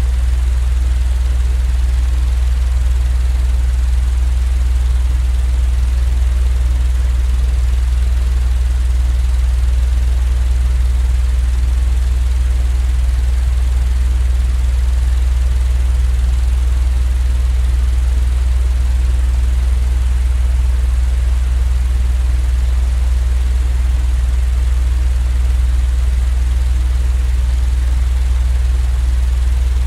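Steady, unchanging low hum with an even soft hiss over it: a continuous white-noise sleep track of the droning-fan or rumbling-train kind.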